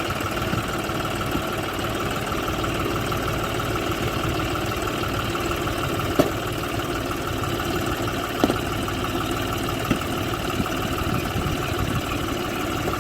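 Tractor diesel engine running steadily at a low, even speed, with a few short sharp knocks about midway.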